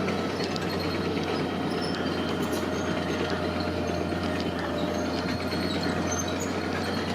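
Heavy construction machinery running: a steady diesel engine drone with scattered light rattling clicks.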